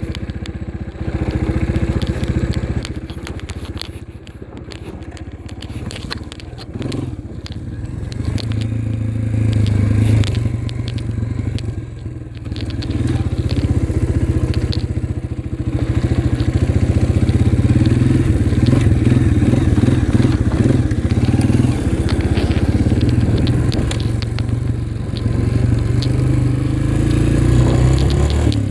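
Dirt bike engine running under changing throttle. It dips around four seconds in and is louder and steadier from about sixteen seconds on.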